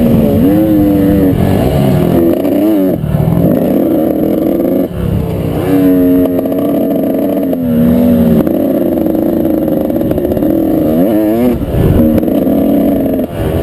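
Dirt bike engine at high load, revving up and dropping back again and again as the throttle is worked on and off, with a low rumble of wind underneath.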